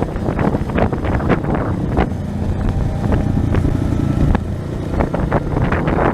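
A 230 cc trail motorcycle's engine running under way, with its note holding steadier for a couple of seconds midway. Wind buffeting and short knocks on the microphone run over it.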